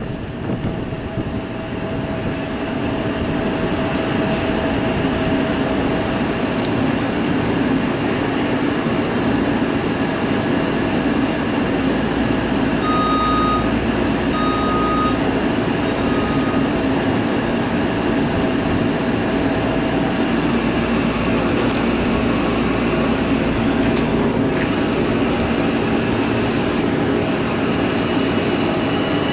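Long Island Rail Road train running steadily with a loud rumble and hum. Three short high beeps sound about halfway through, and a brief hiss of air comes near the end.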